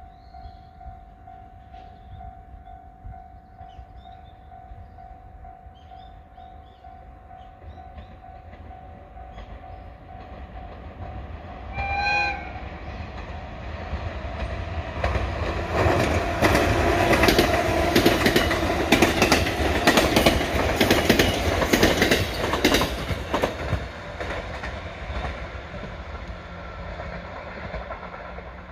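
A 211 series electric commuter train approaching and passing. It gives a short horn blast about twelve seconds in, then its wheels clatter over the rail joints as it goes by, loudest in the middle of the pass and fading near the end.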